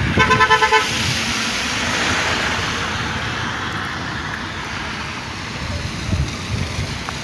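A car horn sounds a quick run of short toots lasting about a second, followed by a steady hiss of rain.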